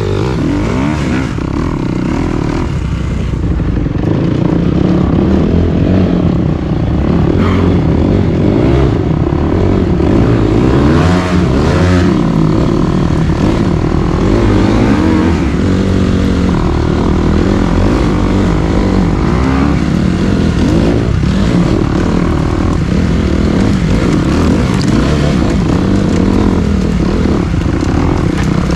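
Dirt bike engine running hard on a trail ride, its pitch climbing and dropping again and again as the rider works the throttle and gears.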